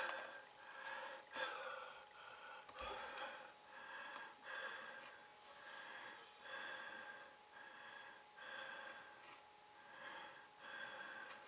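Craft knife slicing through thin printed card on a cutting mat in quick, repeated strokes, about two a second, each a faint scratchy rasp.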